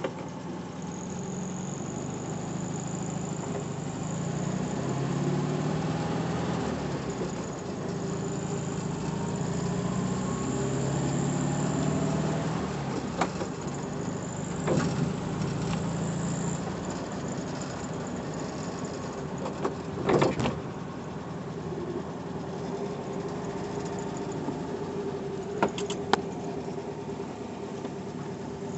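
1966 Volkswagen Beetle's air-cooled flat-four engine running while driving, heard from inside the cabin, its pitch rising and falling a few times in the first half. A few sharp knocks cut through, the loudest about two-thirds of the way in.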